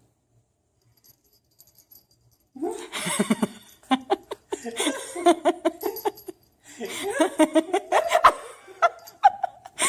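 A person laughing in long bursts, with scattered sharp clicks and knocks mixed in. It starts about two and a half seconds in, after a near-silent start.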